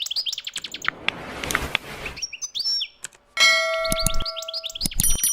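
European goldfinch twittering in quick runs of short chirps. A rushing hiss comes in about half a second in and lasts about a second and a half. After a brief pause, a steady bell-like ringing tone sounds for over a second beneath the chirping, with a couple of low thumps.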